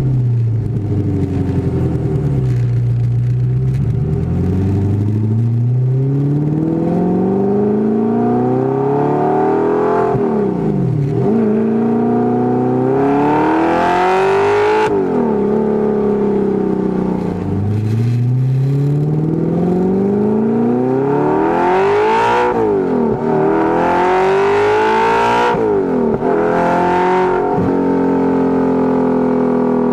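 Audi R8's 4.2-litre V8 through a Fast Intentions exhaust, heard close to the tailpipes. The revs fall at first, then the car accelerates through the gears of its manual box: the pitch climbs and drops at each upshift, about five times, before settling to a steadier note near the end.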